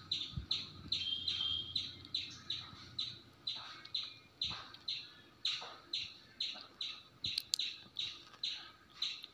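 A bird calling a short chirp that falls in pitch, over and over at an even pace of about three a second.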